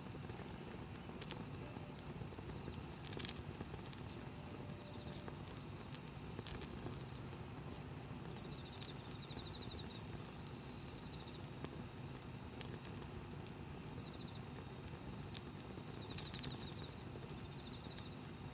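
Wood campfire burning with a steady low rush and scattered sharp crackles and pops. A few faint, short, high trills from an insect come through now and then.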